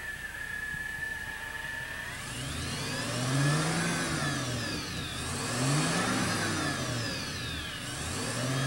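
Supercharged 288 cubic inch Lycoming straight-eight of a 1935 Auburn 851, heard through its side exhaust pipes, revved up and back down three times starting about two seconds in, the third rev coming near the end.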